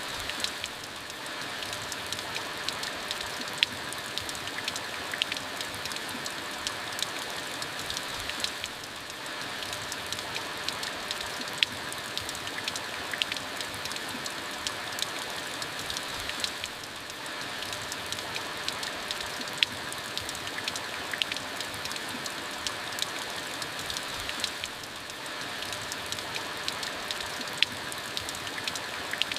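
Steady rain falling, with scattered sharp drops ticking on a hard surface. The hiss dips briefly about every eight seconds.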